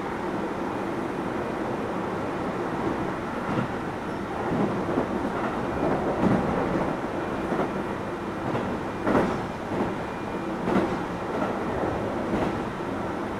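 Keio 7000 series electric train running at speed: a steady rumble with irregular clacks and knocks of the wheels over rail joints or points, sharper and more frequent in the second half.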